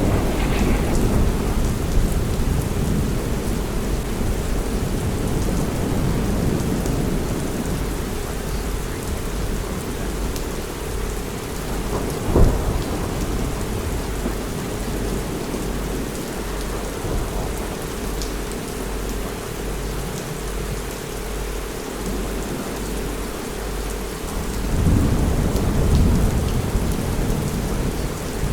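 Steady heavy rain with thunder: a sharp crack of thunder about 12 seconds in, and a longer low rumble near the end.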